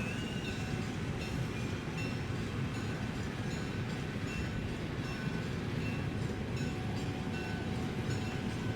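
A train running on the rails: a steady low rumble, with short faint high squeaks recurring throughout.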